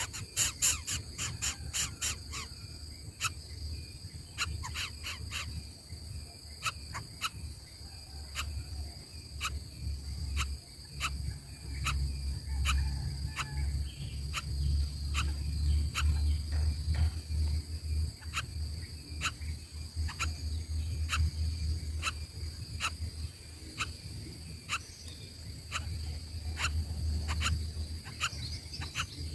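Outdoor insect sound: a steady high-pitched drone with regular sharp clicks about one or two a second, over a low rumble that swells and fades.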